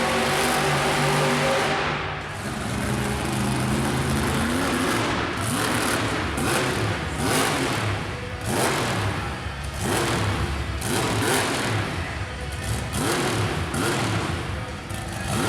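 A vehicle engine revving again and again, its pitch climbing with each rev and dropping back, after a steady drone in the first two seconds.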